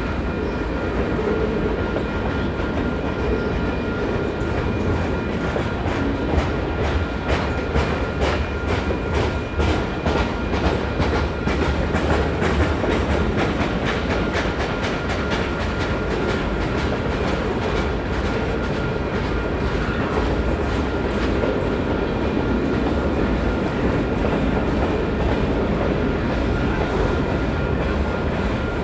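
Freight cars of a manifest train rolling past over a steady low rumble, their wheels clicking over rail joints, with the clicks thickest in the first half. A faint steady high ringing runs underneath.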